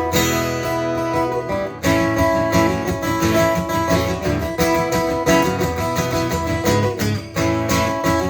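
Acoustic guitar playing an instrumental break in an acoustic rock song: one chord rings for about two seconds, then steady strumming.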